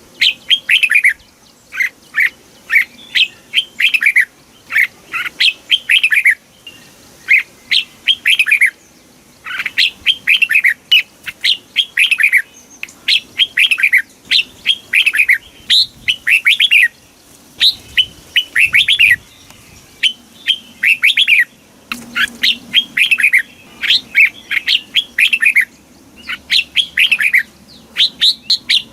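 Red-whiskered bulbul singing: quick phrases of short, bright notes that sweep downward, repeated over and over with brief pauses between them.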